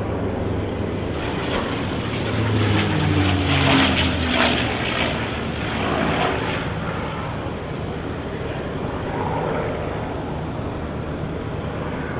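P-51 Mustang's V-12 piston engine running as the fighter flies past low. It grows louder to a peak about four seconds in, its pitch dropping as it goes by, then fades somewhat.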